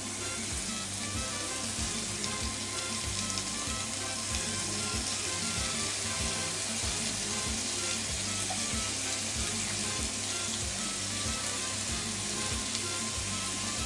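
Sliced onion and komatsuna sizzling steadily in hot sesame oil in a frying pan as pieces of canned broiled saury are added.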